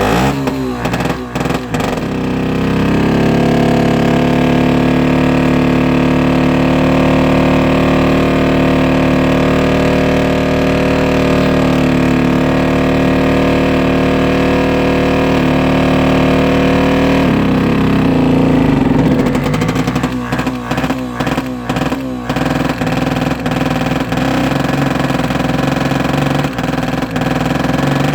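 Engine of a ДЗ-143 motor grader running during a cold start at −29 °C, with the starting engine (pony motor) working. It runs steadily at first, then about 17 seconds in the sound turns rougher and lower, with a string of knocks a few seconds later.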